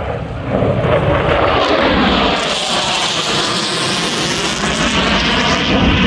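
Mirage 2000 fighter's single M53 afterburning turbofan heard as loud, continuous jet noise during a display pass. The noise grows louder about half a second in and takes on a strong hiss from about two and a half seconds.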